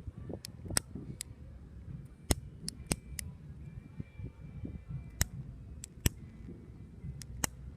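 Fireworks and firecrackers going off: about a dozen sharp cracks and pops at irregular intervals over a low rumble.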